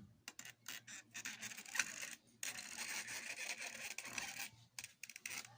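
Plastic toy vehicles being scraped and rolled across a surface: stretches of rubbing and scratching with small clicks, pausing briefly twice.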